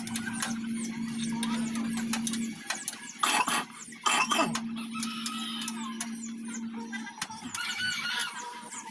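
Birds chirping, with a steady low hum and two short loud noises about three and four seconds in.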